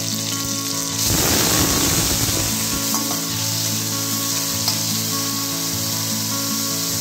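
Paneer cubes sizzling in hot oil in a stainless steel kadai. The sizzle grows louder for a couple of seconds about a second in as the cubes go into the oil, then settles to a steady sizzle.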